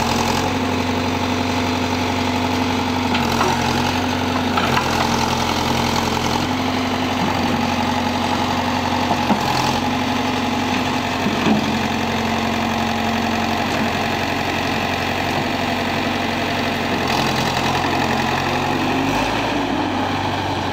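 Tractor engine running steadily, driving a farm backhoe, with its note shifting slightly several times and a few light knocks.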